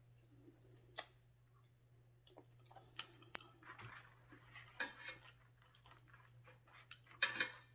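A person chewing food close to the microphone, with scattered sharp clicks and a few louder short crunchy, rustling bursts, over a faint steady hum.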